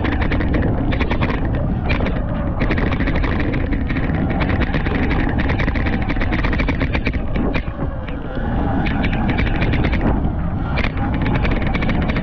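Surron Light Bee X electric dirt bike ridden hard: the electric motor's whine rises and falls with the throttle under heavy wind rumble on the microphone, with many rattles and knocks from the bike over rough dirt. The sound drops off briefly about two-thirds of the way through.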